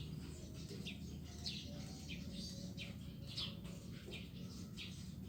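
Small birds chirping: short, high notes that fall in pitch, repeated irregularly about one or two a second, over a faint low hum.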